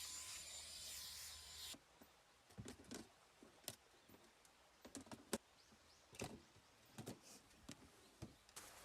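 A steady hiss stops abruptly about two seconds in. After it come scattered light clicks and knocks, a dozen or so irregular taps over quiet background.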